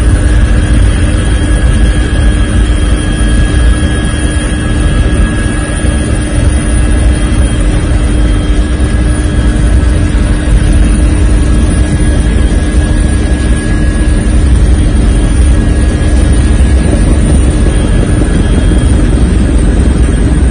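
Loud, steady aircraft engine noise with a deep rumble and a few steady whining tones on top.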